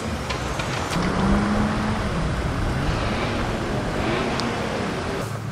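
Car engines and exhausts running as cars drive out of a car park. One engine holds a steady note, then its pitch rises and falls near the middle.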